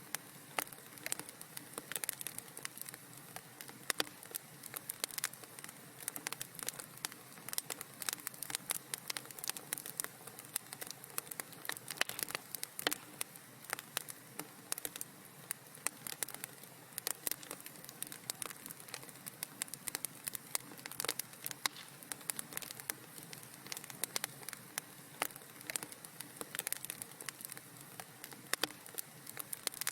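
Wood fire in a fireplace crackling steadily, with many sharp, irregular pops and snaps over a soft hiss.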